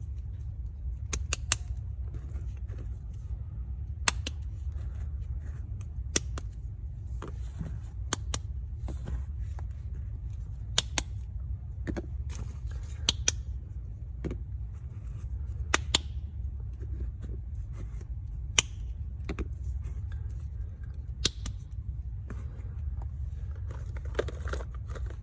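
Soap bars being unpacked by hand: the wrapping crinkles and rustles, with sharp clicks and taps every second or two, over a steady low hum.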